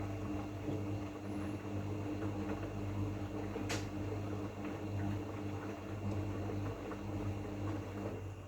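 LERAN WMS 27106 WD2 washing machine running: a steady electric hum with water churning and sloshing, and a single sharp click about three and a half seconds in.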